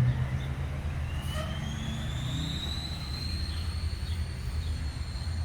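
A vehicle engine running steadily with a low hum, while a thin high whine slowly rises in pitch from about a second in.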